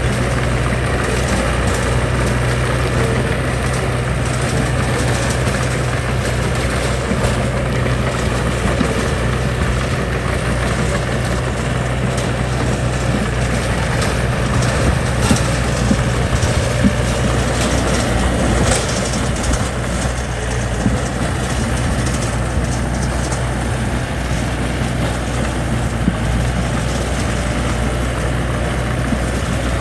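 Heavy diesel engine of construction machinery running steadily at a low, even pitch, with a few short knocks around the middle.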